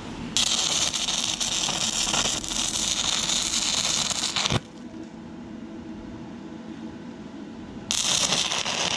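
Stick welding arc from a 6011 rod on an inverter arc welder, crackling and sizzling for about four seconds as holes in thin, rusty, painted metal are filled. The arc then breaks, leaving a quieter steady hum, and strikes again briefly near the end.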